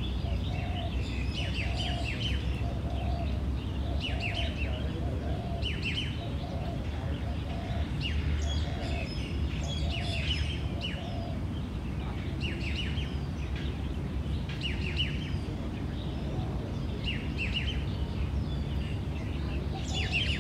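Birds chirping outdoors in short clusters of high notes every second or two, with a lower repeated call through the first half, over a steady low rumble.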